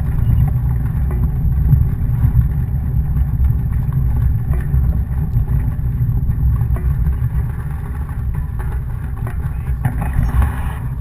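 Wind buffeting the camera microphone in an uneven low rumble, as on a bike ride at speed.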